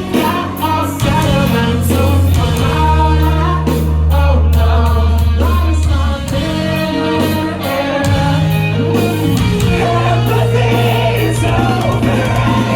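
A live rock band playing, with a singer's vocal line over long, held low bass notes and steady drum hits.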